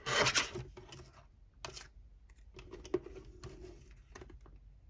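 A paper trimmer cutting a strip of paper, a short rasping slide of the blade at the start, followed by paper being handled and shifted with light clicks and rustles.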